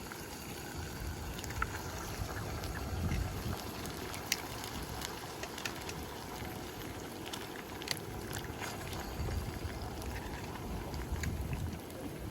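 Wood fire crackling, with scattered sharp pops over a steady hiss and swelling low rumbles.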